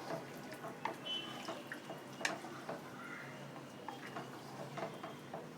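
Chicken stock and rice in a pot coming to the boil: irregular small bubbling pops over a faint steady hiss.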